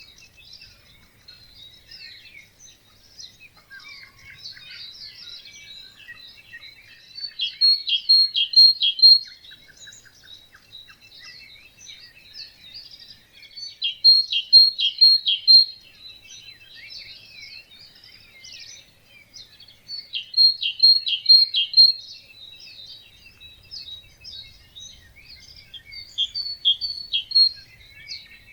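Dawn chorus of many small birds singing together in a wetland. One nearby bird repeats a loud, short song four times, about every six seconds, each phrase ending in a few emphatic notes.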